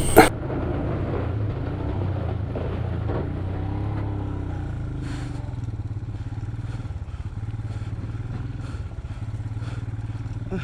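Motorcycle engine running at a steady speed while riding, with a few faint clicks of clatter.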